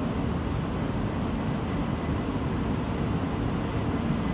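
E2 series Shinkansen train rolling slowly into the station platform, a steady low rumble with two brief faint high-pitched tones, about a second and a half apart.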